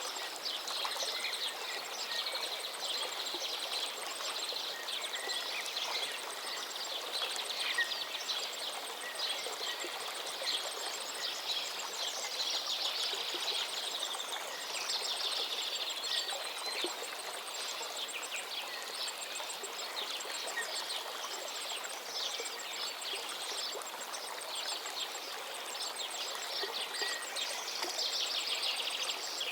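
A river flowing steadily, with songbirds singing and calling over it throughout, including some fast trills.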